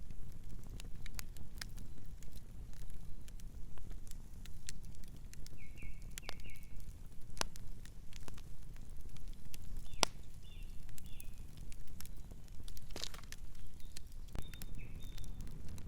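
Campfire crackling, with frequent sharp pops and snaps over a steady low rumble. A few short, high bird chirps come and go.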